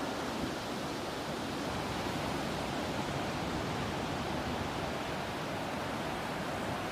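Steady, even rush of ocean surf and breeze, a continuous wash with no separate wave breaks standing out.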